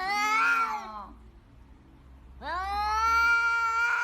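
A cat meowing in long, drawn-out calls: one call ends about a second in, and a second begins about halfway through and is held past the end.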